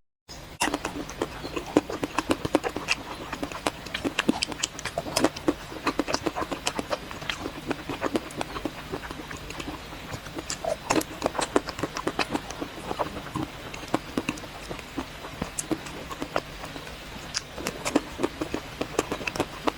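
Close-miked eating of chocolate ice cream: a steady run of crisp clicks, crackles and wet mouth smacks as the chocolate coating is bitten and chewed.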